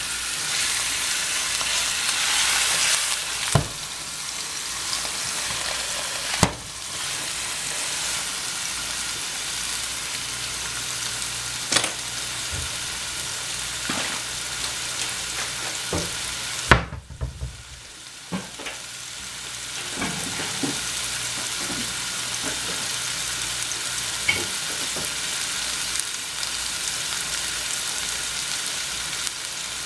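Chuck roast searing in hot olive oil in a skillet, sizzling steadily. A few sharp knocks sound over it, the loudest about two-thirds of the way through, after which the sizzle briefly quietens before coming back.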